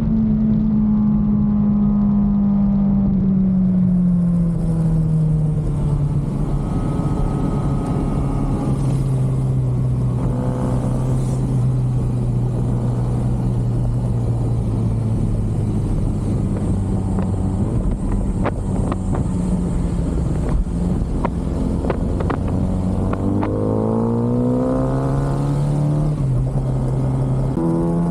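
2023 Kawasaki ZX-6R inline-four with its stock exhaust, heard on the move. The engine note falls as the bike slows, holds steady while cruising, then rises as it accelerates, eases off and rises again near the end, over a steady rush of wind and road noise.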